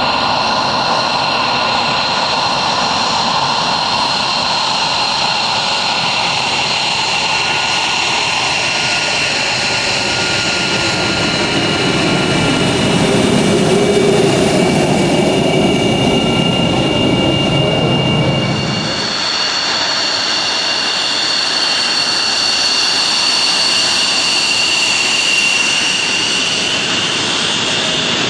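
Jet aircraft engines running with a steady high-pitched whine of several tones. A heavier low rumble builds about a third of the way in and drops away fairly suddenly about two-thirds through, leaving the whine.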